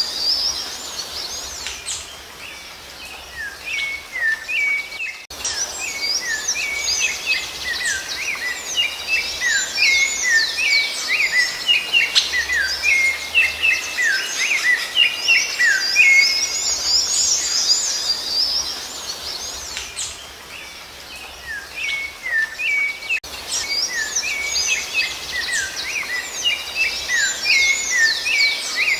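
Rufous-bellied thrush (sabiá-laranjeira) song: a dense, continuous run of short whistled and sliding notes with high chirps overlapping. It thins out twice for a few seconds before picking up again.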